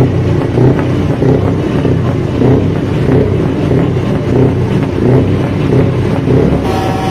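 Scania V8 diesel truck engine running steadily and loudly at low revs. Near the end the sound shifts abruptly and a steady higher tone joins in.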